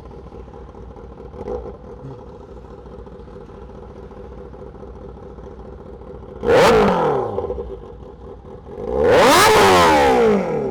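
Kawasaki ZX-6R inline-four sport bike revved hard twice, about six and a half and nine seconds in, its pitch climbing and falling away each time, over a steady engine idle.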